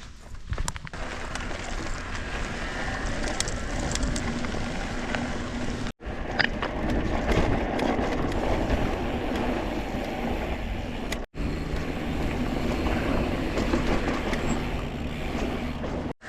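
Mountain bike riding over a dirt and rock trail: steady tyre rumble and rattle of the bike, with wind on the microphone. The sound breaks off abruptly twice, about six and eleven seconds in.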